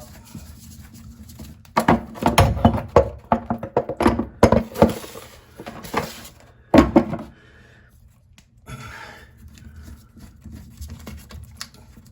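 A run of sharp knocks and clanks, a tool working a toilet fitting loose, busiest from about two to seven seconds in, then lighter handling sounds.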